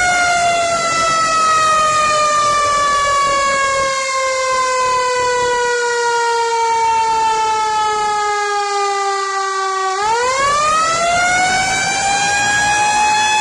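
Fire engine siren sounding loudly, its pitch sliding slowly down for about ten seconds and then winding quickly back up near the end.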